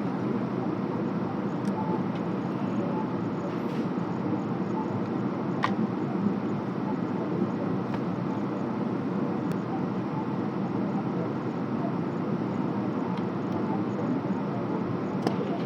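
A vehicle engine running steadily, with a few short, sharp clicks of tools or metal parts over it.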